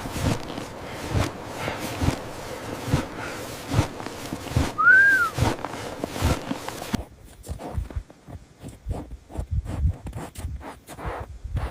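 Footsteps crunching in snow, about two steps a second, with one brief whistle-like tone that rises and falls about five seconds in. The background hiss drops away about seven seconds in, leaving the steps sharper.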